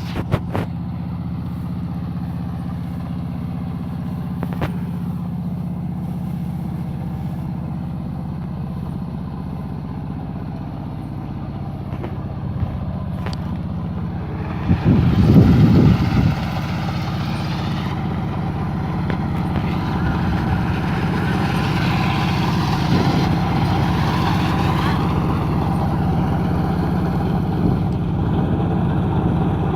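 Yanmar YH 150 mini combine harvester's engine running steadily. There is a short, loud rush of noise about fifteen seconds in, and a higher rushing noise over the engine from about twenty to twenty-five seconds.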